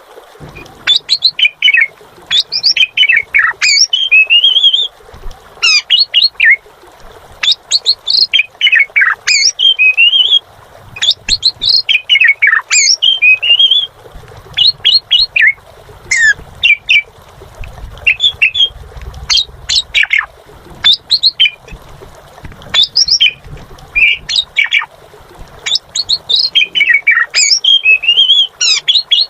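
Pied starling (jalak suren) singing vigorously: loud, varied phrases of whistles, rapid rising and falling notes and harsh squawks, in bursts of a second or two with short pauses between.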